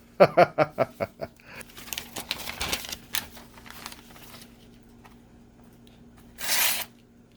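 A freshly sharpened pocket-knife edge slicing through a sheet of paper, heard as a quick run of crisp ticks and then a crackly, crinkling cut. A short, louder rustle of paper comes near the end. This is the paper test: the edge passes through with almost no resistance, so it is razor sharp.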